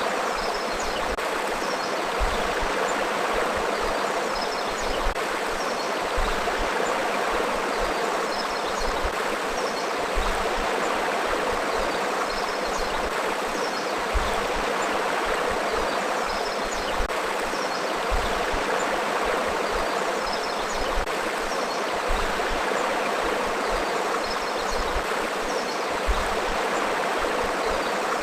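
Forest river flowing: a steady rush and babble of running water, with faint high chirps now and then.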